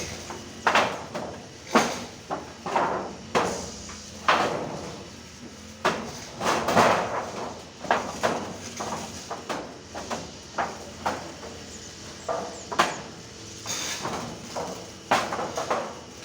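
Irregular knocks and clatters of manual construction work: many sharp impacts at uneven intervals, some with a short ring after them.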